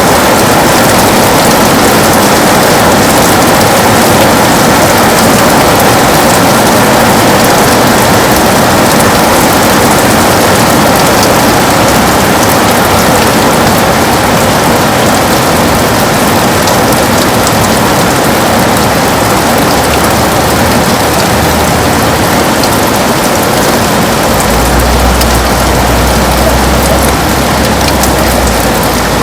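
Heavy rain falling steadily on a window: a dense, even hiss of drops. Near the end a deep low rumble joins underneath.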